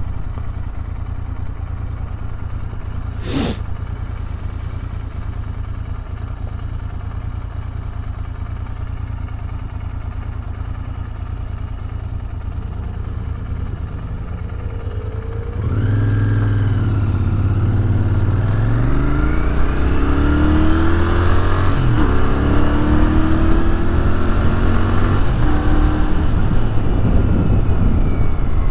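Royal Enfield Continental GT 650's parallel-twin engine ticking over steadily at a stop, then revving up and pulling away about halfway through, its pitch climbing and dropping back with each gear change.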